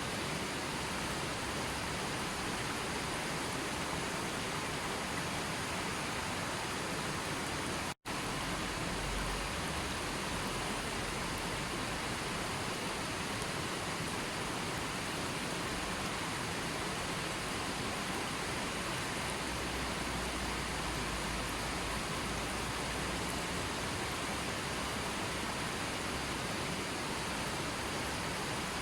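Steady hiss of falling or rushing water, even and unchanging, as a nature-sound recording. It cuts out for an instant about eight seconds in, then carries on as before.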